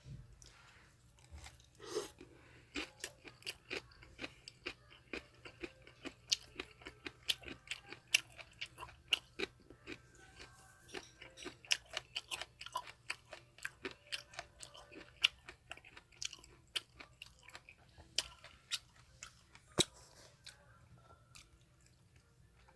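Close-miked chewing of japchae (stir-fried glass noodles): a steady run of wet mouth clicks and smacks, about two or three a second. It stops a couple of seconds before the end.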